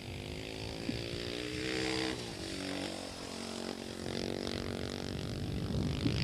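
Husqvarna 610 single-cylinder four-stroke dirt bike engine running under throttle. It climbs in pitch for about two seconds, drops off, then climbs again near the end.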